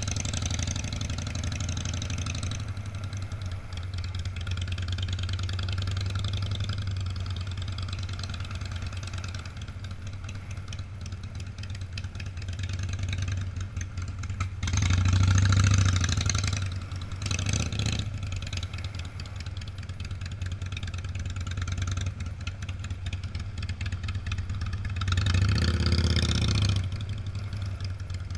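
Engines of classic cars and motorcycles running and passing by in slow succession. Two of them come through louder, about halfway through and again near the end.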